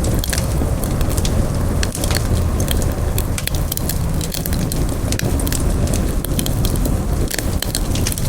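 Campfire burning and crackling: a steady low roar of flames with many sharp irregular pops and snaps of burning wood.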